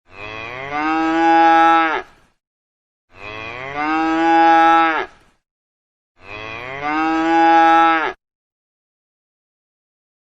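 A cow mooing: three long moos, each about two seconds, a second or so apart.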